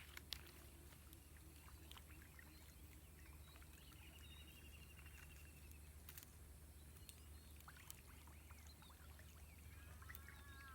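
Near silence: faint outdoor ambience with a short bird trill about four seconds in, wavering bird chirps near the end, and a few faint clicks.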